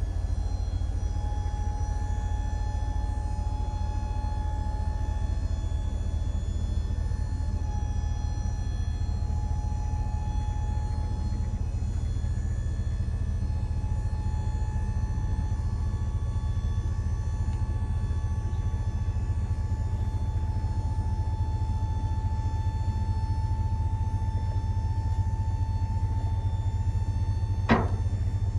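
Steady low rumble of a truck driving on the road, with one sharp click near the end.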